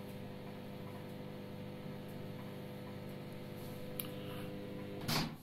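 DeLonghi extra-large microwave oven running at full power with a steady electrical hum, which the owner calls quite noisy. A small click comes about four seconds in, and a louder clack near the end as the hum cuts off.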